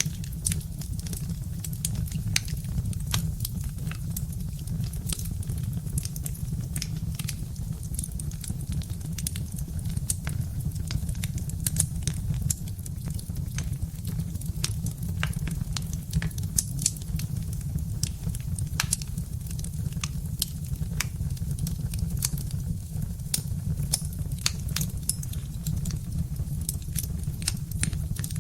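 Birch-log fire crackling, with frequent irregular sharp pops and snaps over a steady low rumble.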